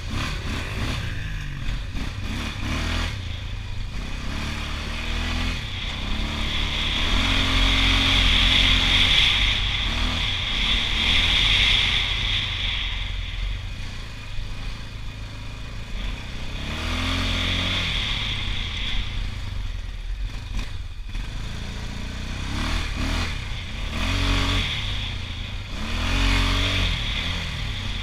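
Honda TRX680 ATV engine revving up and down repeatedly as the quad is ridden, with a louder, hissier stretch about six to thirteen seconds in.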